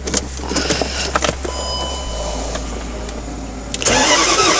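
Range Rover engine being started: a few clicks over a steady low hum, then about four seconds in the starter cranks and the engine fires and runs.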